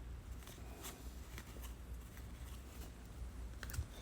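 Faint clicks and light rustles of baseball trading cards being handled and flipped through by hand, over a low steady hum.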